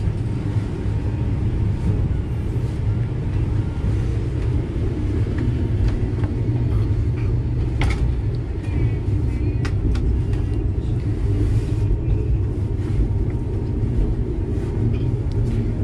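Steady low rumble of a State Railway of Thailand sleeper train running, heard from inside the carriage, with a sharp click about eight seconds in.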